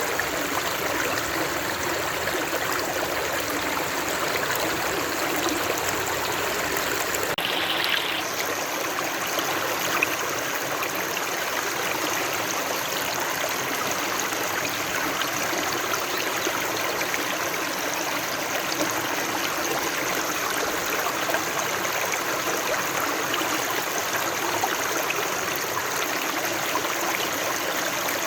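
A stream of water running steadily, a continuous rush of flowing water. Its sound shifts slightly about seven seconds in, with a little less low rumble afterwards.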